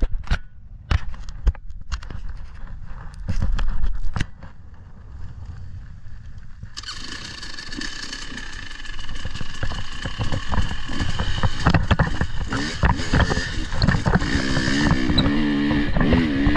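Knocks and handling noises, then an off-road vehicle's engine comes on suddenly about seven seconds in and keeps running, its pitch wavering near the end.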